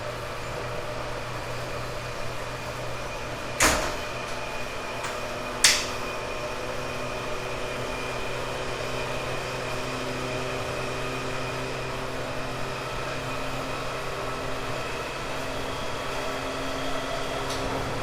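Interior running sound of a 1978 Kawasaki-built 189 series electric train's motor car under way: a steady hum from its MT54 traction motors and gearing over even rolling noise. Two sharp clicks sound about three and a half and five and a half seconds in.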